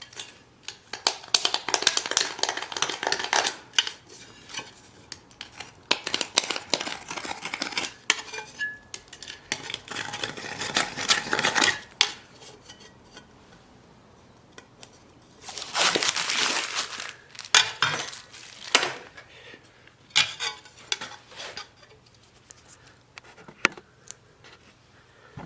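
Metal parts and hand tools clinking and scraping in irregular bursts of one to two seconds, with scattered single clinks between them.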